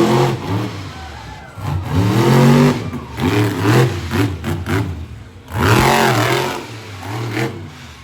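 Monster truck engine revving hard in repeated surges, its pitch swooping up and falling back again and again. The loudest surges come about two and a half seconds in and near six seconds.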